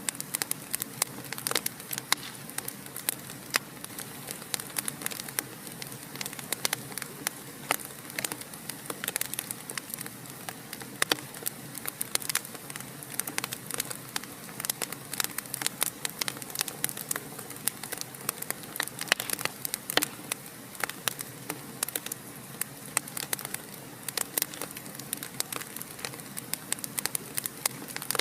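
Fire in a fireplace crackling steadily, with many sharp pops and snaps each second over a soft, even hiss.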